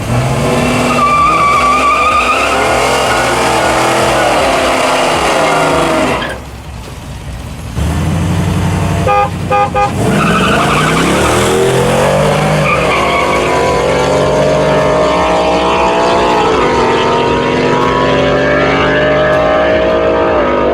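V8 engine revving hard with tyre squeal as a burnout is done, easing off briefly about six seconds in. Three short horn honks follow, then hard acceleration through the gears: the engine note climbs steadily and drops sharply at each shift.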